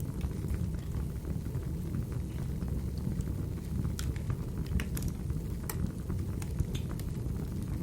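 Wood fire burning with a steady low rumble, sharp crackles and pops scattered through it.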